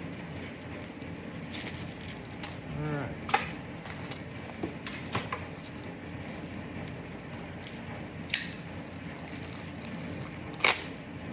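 Fuel pump parts being handled: about six sharp clicks and knocks, the loudest about three seconds in and near the end, over a steady background hum.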